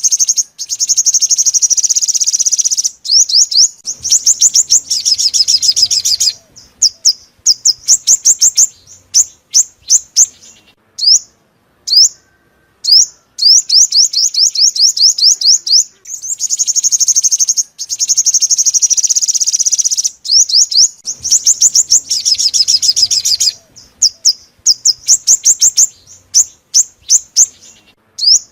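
A purple-throated, yellow-bellied sunbird singing: rapid high, sweeping notes alternating with long dense buzzy trills. The same sequence of phrases repeats about halfway through, as a looped recording.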